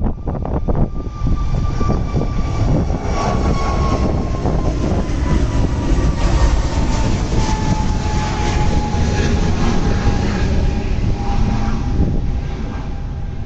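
Jet airliner taking off: a loud, steady engine rumble with a high engine tone that slides slowly down in pitch.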